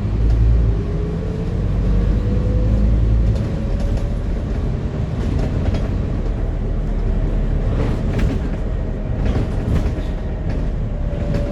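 Scania E400 double-decker bus running on the move, with a low engine rumble and a drivetrain whine that rises over the first few seconds as it accelerates, then holds steady and sags slightly. Brief rattles come in near the end.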